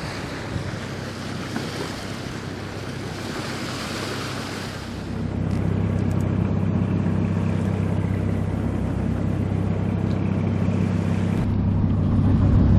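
Water and wind rushing on the microphone aboard a yacht under way. From about five seconds in, the steady low drone of the yacht's engine running under the rush grows louder.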